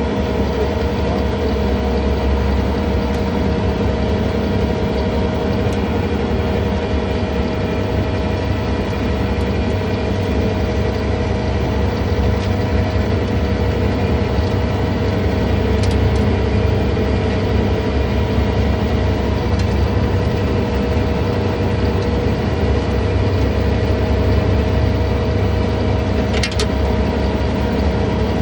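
John Deere 317 skid steer engine running steadily, with a steady whine over the engine drone. There is a brief click near the end.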